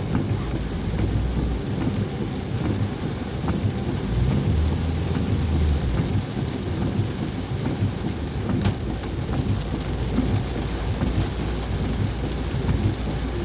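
Heavy rain falling steadily, with a deep low rumble underneath that swells a few seconds in, and scattered sharp ticks of drops striking nearby surfaces.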